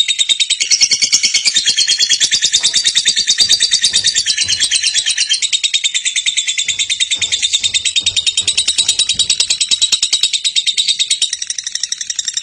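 Lovebird singing a long, unbroken, rapid chattering trill, the drawn-out chatter Indonesian keepers call 'ngekek panjang'.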